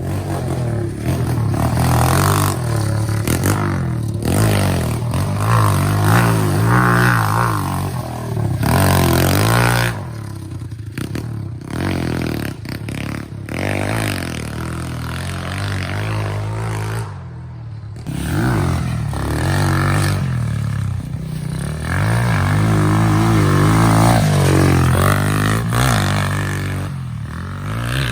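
SSR110 pit bike's small four-stroke single-cylinder engine revving hard as it is ridden, the pitch climbing and falling over and over as the throttle is worked and gears change, easing off briefly about a third of the way in and again about two-thirds of the way in.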